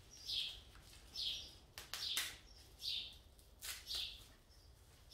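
A bird chirping repeatedly, a short high call about once a second. A few sharp rustles and clicks from packaging being handled come in between.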